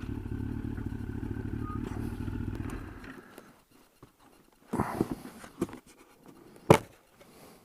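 Yamaha FZS Fazer 1000's inline-four engine idling steadily, then shut off about three seconds in. This is followed by a few short scuffs and one sharp click.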